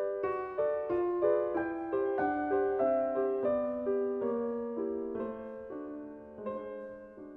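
Solo piano music: a slow, gentle passage of single notes and chords, with a descending line in the lower notes.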